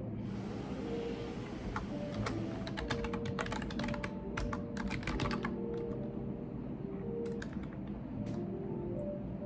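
Typing on a computer keyboard: a quick run of key clicks for a few seconds, then a pause and a few scattered keystrokes near the end.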